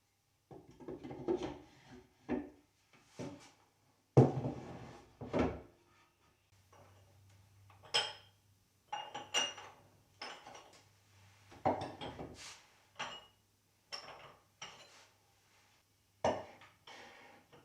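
Kitchen things being handled and set down: an irregular run of wooden knocks and clacks mixed with a few short ringing clinks of dishes.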